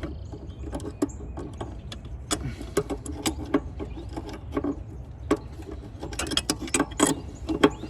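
Irregular metallic clicks and knocks of hand tools and parts being worked in an engine bay, over a steady low rumble.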